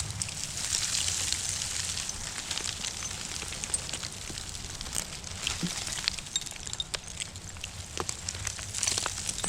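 Dry, dusty dirt and small stones being scraped and crumbling, an even crackling trickle with many scattered sharp little clicks.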